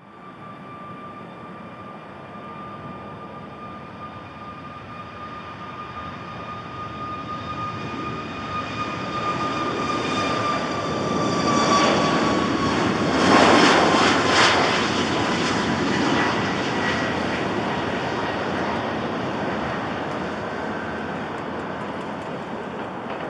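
Boeing 737 jet airliner departing and passing by. A whine drops slowly in pitch as the engine noise builds to its loudest about 13 to 14 seconds in, then fades.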